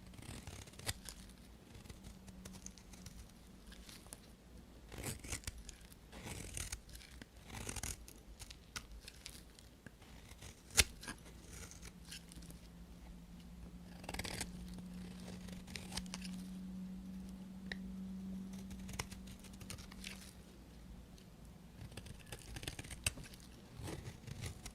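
Knife blade cutting and scraping through bar soap in irregular short strokes, with one sharp click about eleven seconds in.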